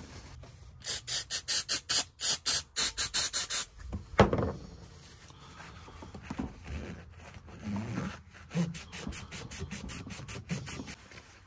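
Throttle body being scrubbed clean in quick strokes, about four or five a second, with a squeaky rubbing sound. The scrubbing stops after about three seconds and is followed by one loud knock as the part is handled, then quieter handling.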